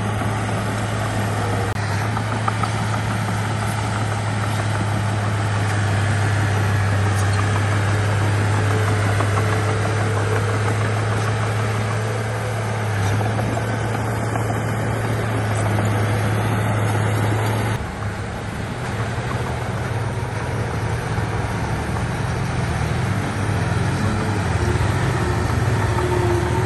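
Diesel engine of heavy earthmoving machinery running steadily with a low, even hum. About two-thirds of the way through the sound changes suddenly, becoming a little quieter and rougher.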